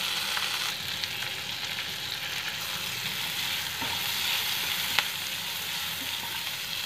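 Garlic, green chillies and whole spices sizzling in butter and oil in a nonstick pan, stirred with a silicone spatula: a steady frying hiss, with one sharp click about five seconds in.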